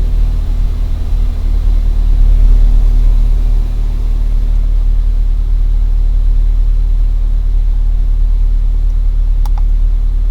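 Car engine idling steadily, a low even rumble picked up close to the engine through a Super Ear toy's amplified microphone. The engine is not yet fully warmed up.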